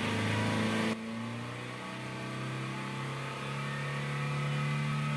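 Toyota Avanza engine idling steadily after the check-engine light reset. The sound changes abruptly about a second in.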